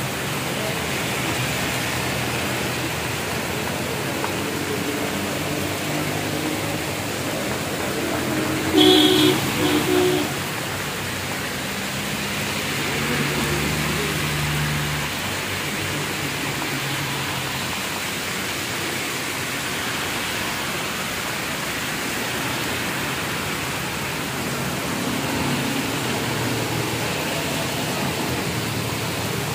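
Heavy rain pouring onto a city road as a steady hiss, with cars driving through standing water and engines passing. A vehicle horn honks twice about nine seconds in.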